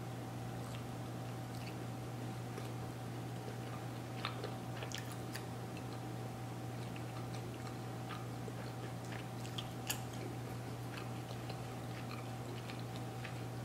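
Close-up chewing of a soft pretzel dog, with small wet mouth clicks and a couple of sharper clicks about four and ten seconds in, over a steady low hum.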